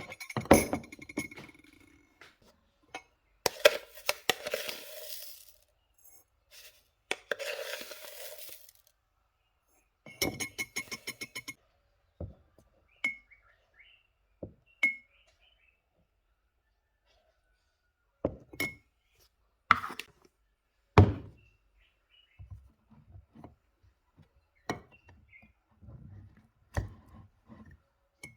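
Intermittent clinks, knocks and rustling handling noises, with a quick run of small clicks about ten seconds in.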